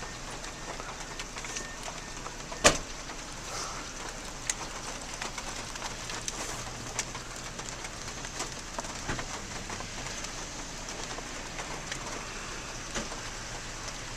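Steady rain falling on a car, a hiss dotted with scattered drop ticks, with one sharp click about three seconds in.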